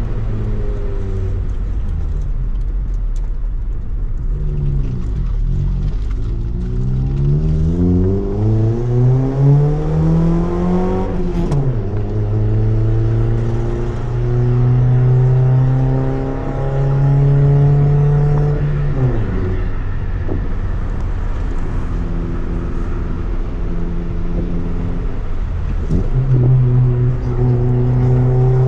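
Honda EF Civic's D15B1 four-cylinder engine through a Tanabe Revel Medalion Touring S exhaust, driving uphill. The revs climb steadily for several seconds, then drop sharply midway, as at an upshift. In between the engine holds a steady cruising drone, with a couple of short dips in revs.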